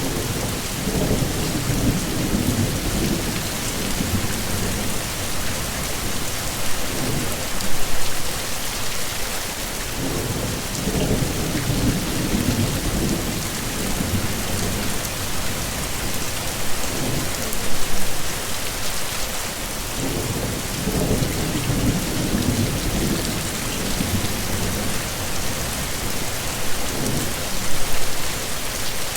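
Heavy rain falling steadily in a constant hiss, with low thunder rumbles swelling and fading about every ten seconds.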